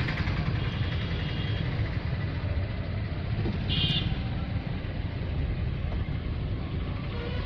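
Motor vehicle running on the road, a steady low engine and road rumble, with one short high beep about four seconds in.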